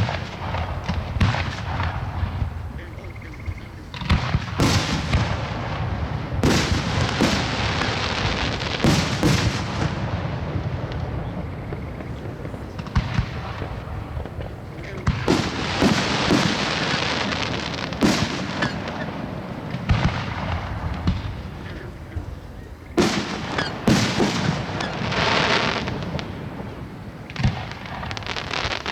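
Aerial fireworks going off in rapid volleys: many sharp bangs, with stretches of dense crackling about four seconds in, around fifteen seconds and again about twenty-three seconds in.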